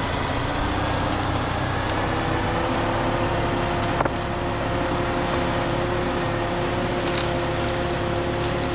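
Heavy earth-moving equipment's engine running steadily, its pitch rising slightly over the first couple of seconds. A single sharp knock comes about four seconds in.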